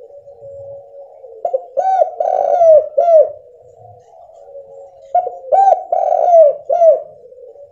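Spotted dove (tekukur) cooing: two call phrases of several short arched coos each, starting about a second and a half in and again about five seconds in. This is the clear call used as a lure to set other doves calling.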